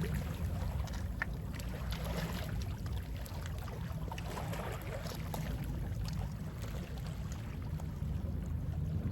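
Gentle sea waves lapping, with small splashes, over a steady low rumble of sea wind on the microphone.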